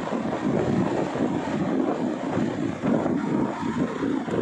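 Passenger train running, heard from aboard an LHB coach: a steady rumble and rush of running noise.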